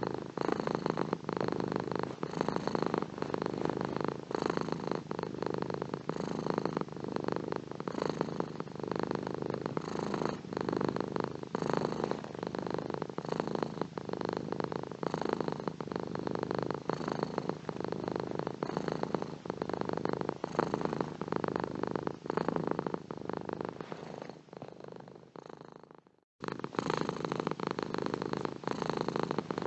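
Domestic cat purring steadily and closely, a rough, fast-pulsing purr. It fades away near the end, stops for a moment, then starts again abruptly.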